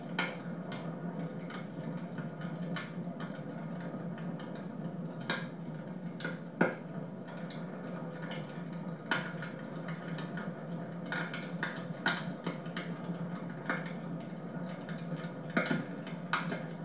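Wood fire crackling in a fireplace: irregular pops and snaps over a steady low rush of the burning fire.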